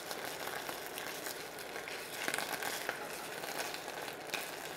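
Tomato paste frying gently in a little oil in a stainless steel pan: a soft, steady sizzle with a few faint crackles as a silicone spatula pushes it around.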